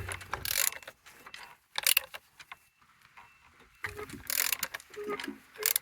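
Used 1A48 engine being turned over by hand with a wrench, checking that it rotates and has compression: a few separate metallic clanks and rattles of the tool, with short squeaks near the end.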